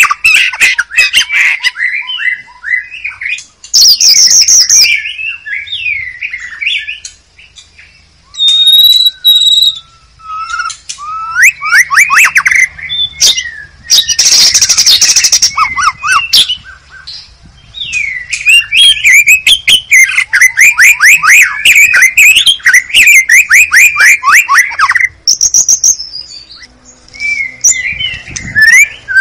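White-rumped shama (murai batu) singing a loud, varied song of whistled phrases and rapid trills, broken by a few short harsh rasping notes.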